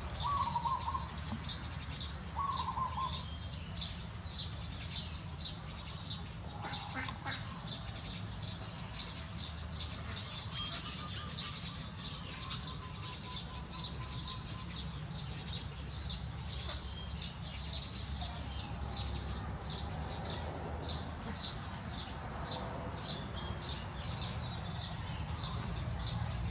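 Baby birds chirping: a steady, rapid run of short high-pitched chirps, several a second, that keeps on without a break.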